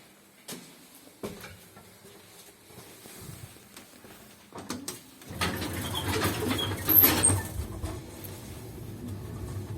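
Soviet-era KMZ passenger lift: a few sharp relay-like clicks, then about halfway through the car starts moving with a low steady hum from its two-speed 4AN-180 hoist motor, overlaid with squeaks and rattling clicks, the loudest clack about two seconds after the start. The clattering is typical of the lift's loud speed limiter (governor).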